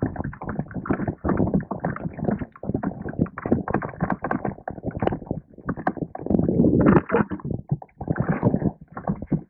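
Irregular splashing and sloshing of water close to a kayak, in quick uneven surges with no steady tone.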